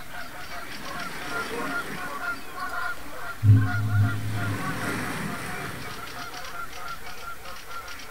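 Many short honking bird calls in quick succession, with a brief low steady drone about three and a half seconds in.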